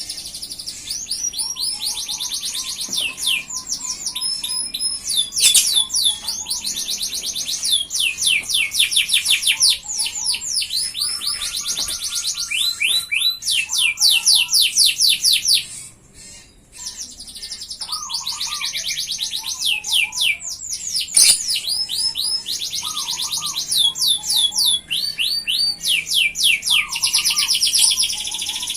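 F1 domestic canary singing a long song of rapid trills and rolls, one phrase run straight into the next. It breaks off briefly about halfway through, then goes on.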